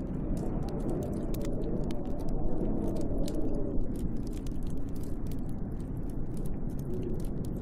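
Snowstorm wind blowing steadily with a slowly wavering moan, over a wood fire in a fireplace crackling with many small sharp pops.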